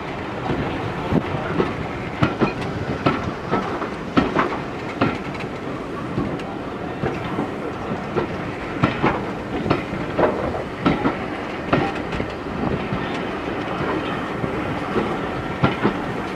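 Train rolling along the track: a steady rumble with many irregular clicks of the wheels passing over rail joints.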